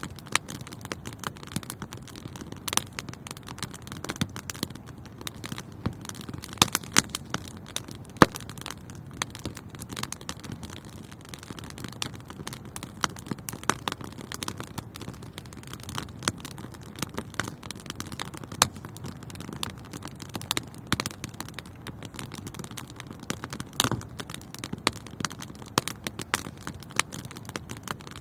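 Wood fire burning in a fireplace: a steady low rumble of flames with dense, irregular crackles and occasional louder sharp pops.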